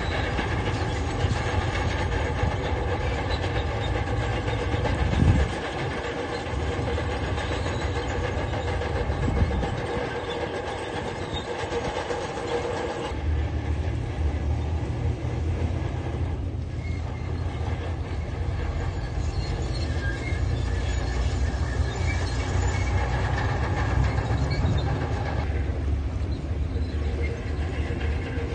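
Diesel engine of a tracked earthmoving machine running steadily with metal crawler tracks clanking. A sharp knock comes about five seconds in, and the engine sound shifts about halfway through.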